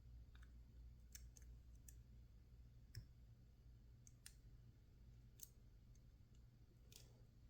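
Faint, irregular light clicks of lock picks working the pins of a PacLock 410 Pro padlock, about ten scattered clicks, over a low steady hum.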